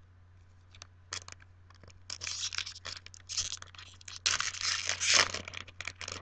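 A foil Yu-Gi-Oh! booster pack wrapper being torn open and crinkled, in a run of short irregular rasps that are loudest around four to five seconds in.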